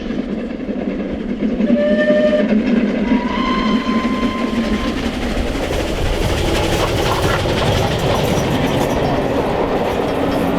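Steam train running along the line: a steady, loud rumble of running gear and wheels on the track, with a few short steady tones about two to four seconds in.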